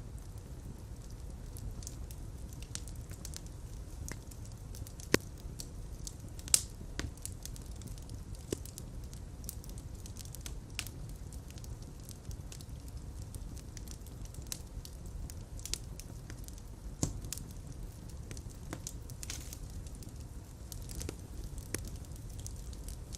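Fireplace fire crackling: a steady low rumble of flames with scattered crackles and sharp pops, the loudest about five and six and a half seconds in.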